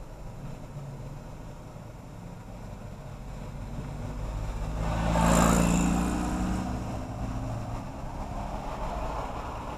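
A motor vehicle passing close by, its engine and tyre noise swelling to a peak about five seconds in and then fading, with the engine tone dropping slightly as it goes by, over the steady low running noise of the car being driven.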